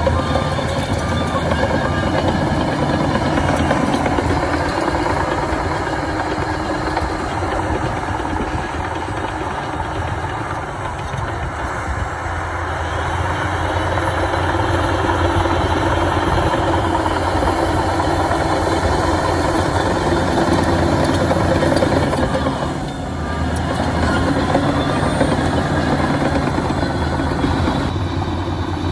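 Heavy diesel engine of a Shantui bulldozer running steadily, with a reversing alarm beeping briefly about three-quarters of the way through.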